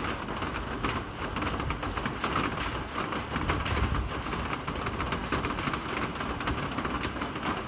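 Steady rain falling, an even hiss with a dense fine patter; a low rumble swells about three and a half seconds in.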